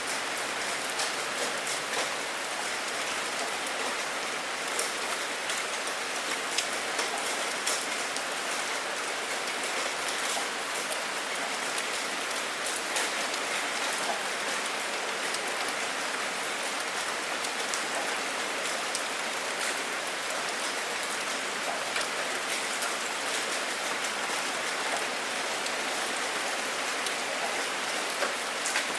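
Steady rain falling, an even hiss with many sharp, close drop hits ticking through it.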